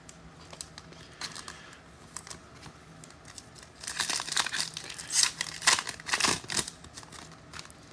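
Foil wrapper of a trading-card pack crinkling and tearing as it is opened, with a denser spell of sharp crackles from about four seconds in to about seven.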